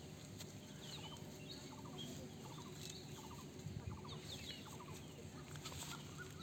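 Faint bird calls: short runs of rapid clucking like domestic fowl, several times, mixed with short high chirps.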